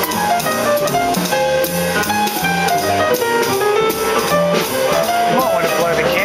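Jazz quartet of saxophone, piano, bass and drum kit playing live, a line of quick notes moving over a walking accompaniment and drums. A few bending notes come near the end.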